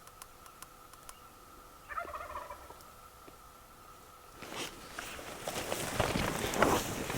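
A wild Merriam's turkey gobbler gobbles once, a short rattling call about two seconds in. From about halfway through, footsteps and rustling of people walking take over.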